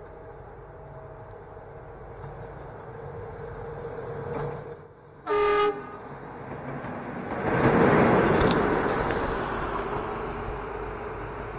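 Electric locomotive sounds one short horn blast about halfway through as it approaches, then passes close by. The rush of wheel and rail noise swells to its loudest a couple of seconds after the horn and slowly fades as the train draws away.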